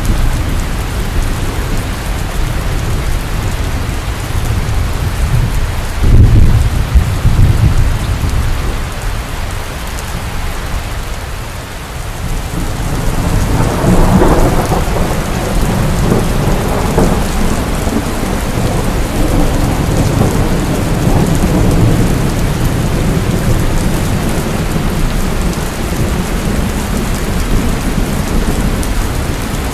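Heavy rain falling steadily, with thunder rumbling low about six seconds in and a louder roll of thunder starting around thirteen seconds in and slowly dying away.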